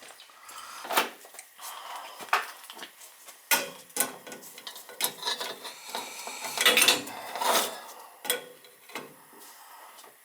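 Metal hand tools clanking and scraping on boiler piping: several sharp clinks and knocks about a second apart, with handling noise between them.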